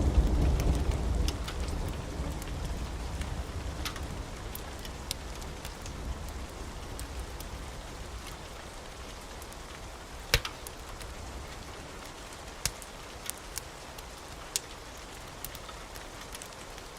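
Wood fire crackling in a fireplace: scattered sharp pops, the loudest about ten seconds in, over a steady hiss. A low rumble dies away over the first few seconds.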